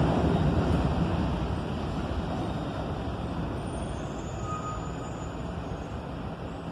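New York City subway train running on the track, its rumble fading steadily as it moves away, with a faint brief squeal about four seconds in.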